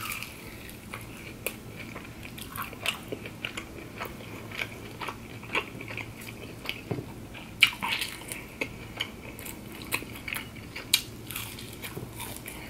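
A person chewing and crunching mouthfuls of breaded chicken nuggets dipped in cheese sauce: irregular crisp crunches and clicks of biting and chewing.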